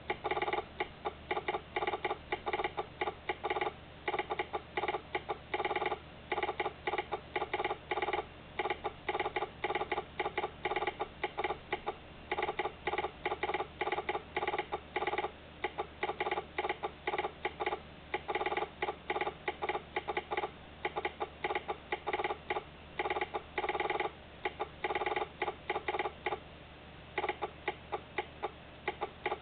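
Rapid, uneven mechanical clicking that runs on steadily, several clicks a second, with a short pause about 27 seconds in.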